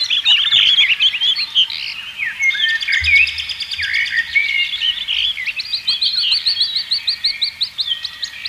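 Several songbirds singing and chirping at once, a dense chorus of quick overlapping chirps, whistles and trills. A brief low thump about three seconds in.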